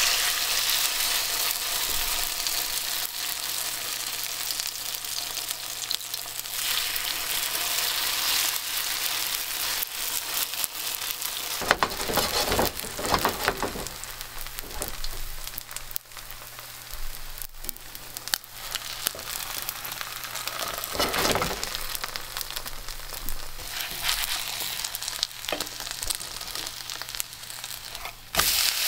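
Chicken pieces in starch batter frying in hot oil in a nonstick pan, a steady sizzle. A few knocks and scrapes against the pan come about twelve seconds in and again around twenty-one seconds.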